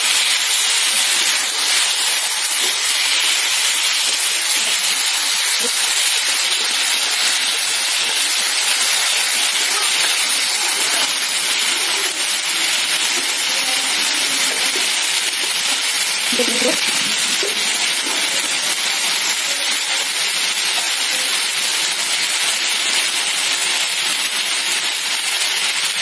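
Crushed amra (hog plum) pieces frying in hot oil in a steel wok: a loud, steady sizzle.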